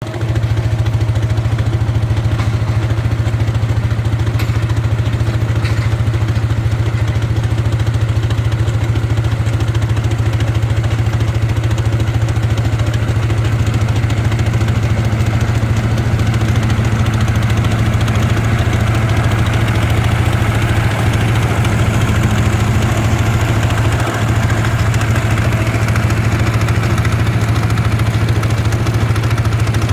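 Tractor engine running at a steady, unchanging speed with a loud low hum.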